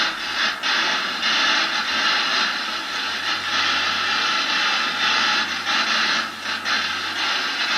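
Loud, steady hiss of radio static from a ghost-hunting detector device, broken by a few brief dropouts.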